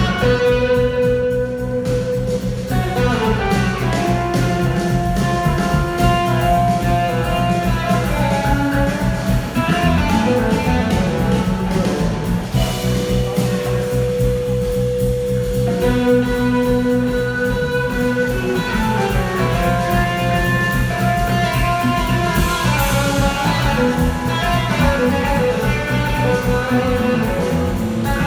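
Live blues-rock band playing an instrumental passage, with a lead guitar holding long, sustained notes over bass and drums.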